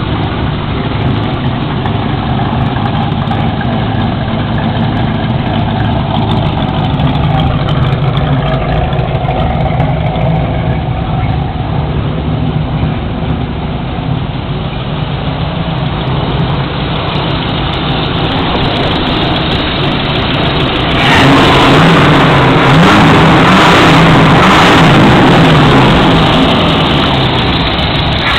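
Classic car engine idling steadily. About 21 seconds in, the sound turns suddenly louder and fuller, and the engine revs rise and fall.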